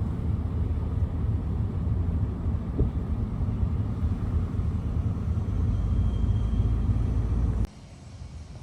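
Low, steady rumble of idling diesel locomotives, cutting off abruptly near the end to quieter outdoor ambience.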